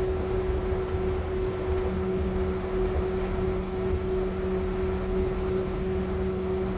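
A Yurikamome rubber-tyred automated guideway train running, heard from inside the car: a steady rumble with a constant hum, joined by a second, lower hum about two seconds in.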